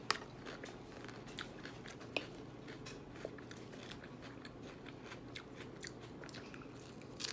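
A person chewing a mouthful of crunchy raw salad close to the microphone: scattered crisp crunches and small clicks at an irregular pace.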